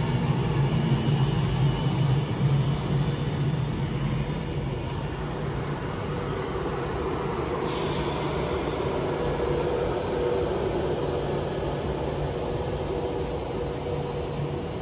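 Avanti West Coast Class 390 Pendolino electric train drawing into the platform, with a steady electric hum that slowly eases. About eight seconds in there is a short burst of air hiss.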